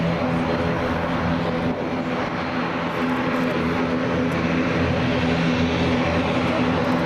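Airliner engines running close by: a loud, steady rush with an unchanging low hum of engine tones beneath it.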